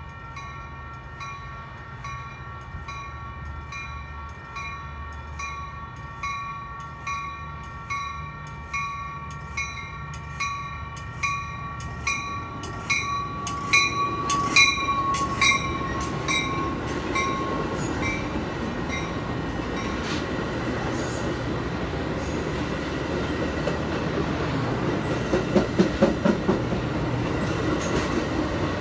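Bell on a Metra commuter train's cab car ringing steadily at just under two strokes a second as the train comes in. Its pitch dips slightly as the cab car passes about halfway through, and it then fades. Meanwhile the rumble of the bilevel coaches' wheels builds, with a quick run of wheel clacks near the end.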